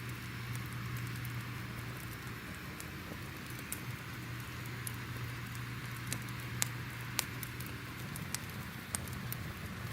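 Crackling fire: a steady hiss and low rumble with sharp pops and snaps scattered through, a few louder snaps about two-thirds of the way in.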